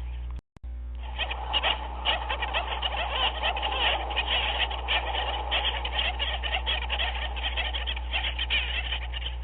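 A dense chorus of many animals calling at once, a steady chatter of short overlapping calls that cuts out for a moment about half a second in.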